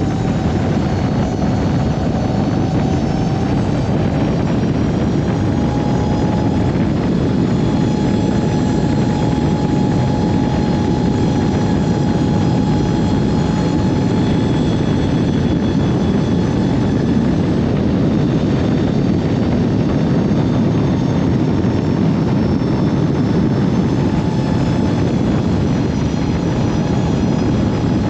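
Steady vehicle running noise, a dense low rumble with a faint steady whine that climbs slightly in the first few seconds.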